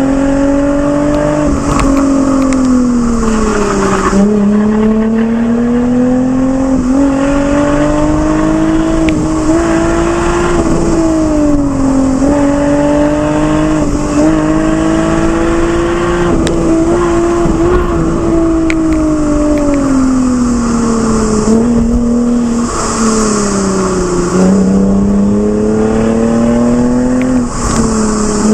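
Lexus IS engine through an aftermarket Fi exhaust, driven hard on a mountain road: revs climb and fall again and again, with several quick drops in pitch at gear changes or lifts off the throttle. The audio is sped up, which raises its pitch.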